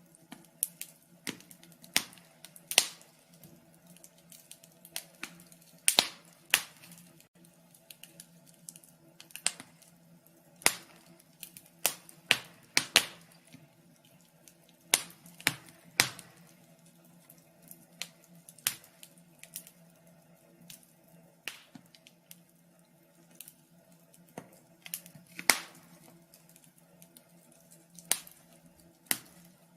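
Wood fire crackling: irregular sharp pops and snaps, several loud ones among many small ticks, over a faint steady low hum.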